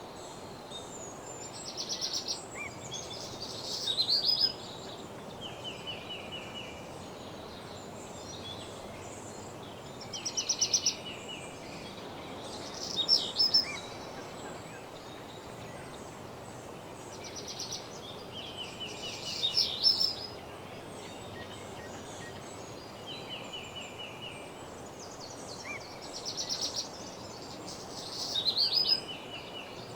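A songbird in woodland singing short phrases of fast trills, a higher trill followed by lower ones, repeated about four times, every seven to nine seconds. The song comes over a steady background hiss of the outdoors.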